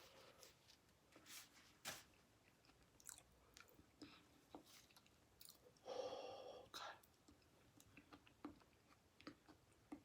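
Close-miked eating of soft buttery food: quiet wet chewing with scattered short mouth clicks. About six seconds in there is a brief louder mouth sound.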